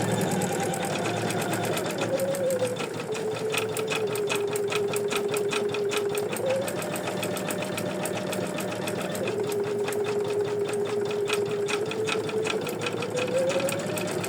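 Embroidery machine stitching a fill area, with rapid, even needle strokes over a steady motor whine. The whine shifts in pitch a few times as the stitching speed changes.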